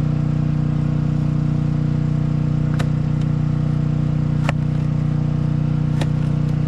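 An engine running steadily at a constant speed, with three sharp clicks or clanks about a second and a half apart.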